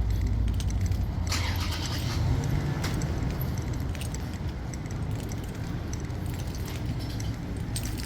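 A steady low rumble, with scattered light clicks and a brief metallic jingling about a second in.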